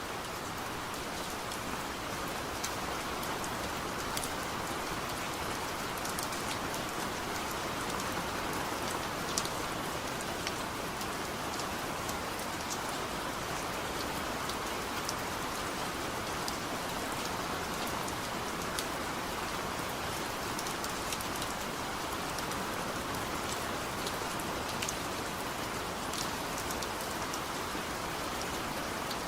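Heavy rain falling steadily in a continuous hiss, with many small drop ticks scattered through it.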